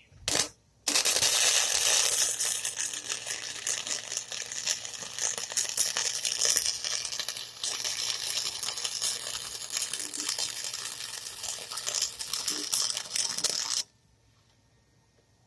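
Electric arc welding: a brief burst of arc crackle, then after about half a second a steady, loud crackling arc that runs for about thirteen seconds and cuts off sharply as the weld ends.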